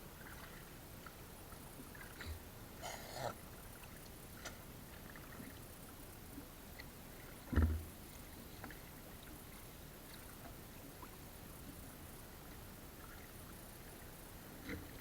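Faint water sounds around a small raft on a river, with scattered small knocks and one louder thump about halfway through.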